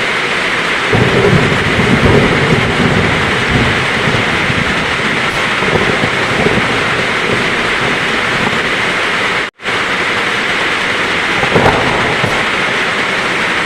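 Heavy rain falling steadily, with thunder rumbling low from about a second in and again briefly near the end. The whole sound cuts out for an instant about two-thirds of the way through.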